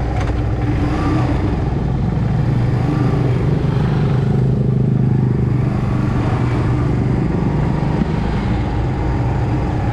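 Small motorbike's engine running steadily with a low hum.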